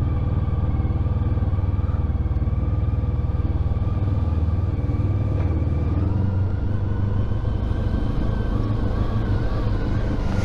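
Honda ST1300 Pan European's V4 engine running steadily at low road speed, heard from on the moving motorcycle, with the engine note rising slightly about six seconds in and wavering near the end.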